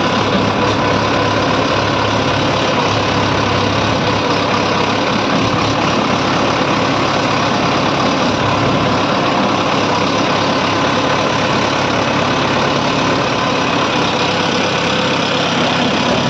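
Tractor engine running steadily at an even speed, loud and unchanging.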